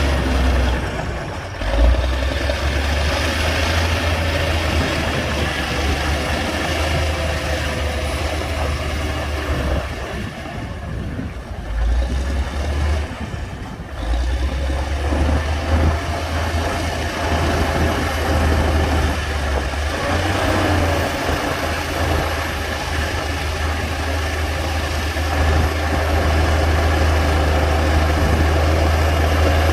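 Heavy diesel engine of a Komatsu D60-P bulldozer running at work, with a single knock about two seconds in. It eases off briefly near the middle, then pulls hard again.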